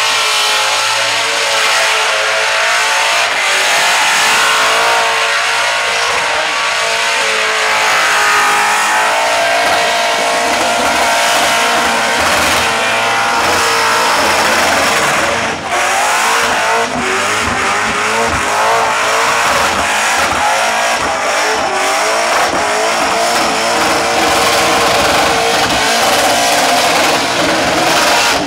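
Supercharged, fuel-injected LS V8 of a Holden Commodore ute held at high revs through a burnout, its pitch wavering up and down. The rear tyres spin and squeal against the pad throughout, with a brief drop in the revs about halfway.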